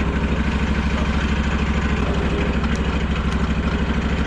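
Sawmill engine running steadily with an even, pulsing beat.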